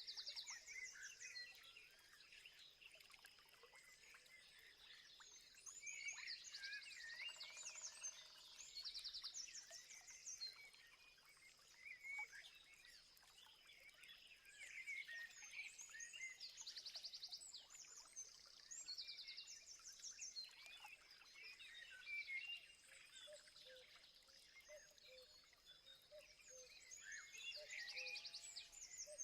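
Faint chorus of several songbirds: short rapid trills repeated every couple of seconds, mixed with scattered chirps and whistles, over a steady high-pitched tone.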